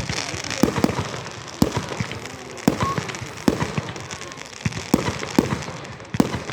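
Fireworks going off: an irregular run of sharp bangs, several a second at times, with crackling in between.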